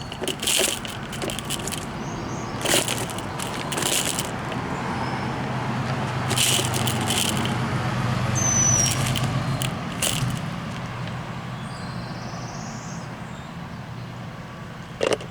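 Short rustling, clattering bursts from a bird feeder as trapped small birds are let out, with a single high chirp about seven seconds in. A passing vehicle hums underneath, loudest around nine seconds in, then fades.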